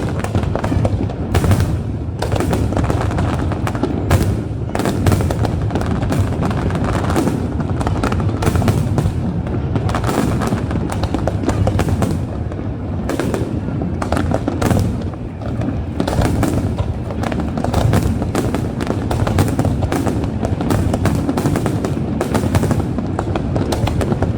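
Aerial fireworks display: a dense, unbroken run of bangs and crackles over a low rumble.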